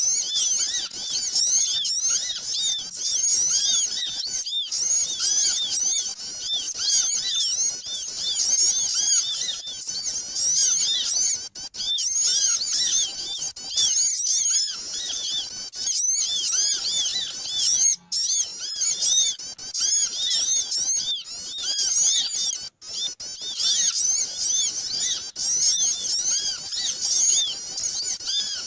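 Busy, continuous chatter of many small birds: dense overlapping quick chirps and twitters, a bird-trapping lure call (suara pikat) meant to draw small birds in.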